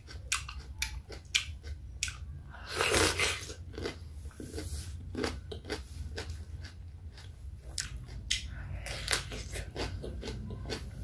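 Cucumber being chewed with wet mouth sounds: a quick, uneven run of crisp crunching clicks, with a louder, longer crunch about three seconds in, over a steady low hum.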